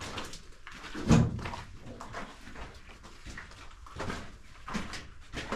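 Irregular footsteps, scuffs and knocks on the rocky floor of a mine tunnel, with one louder thump about a second in.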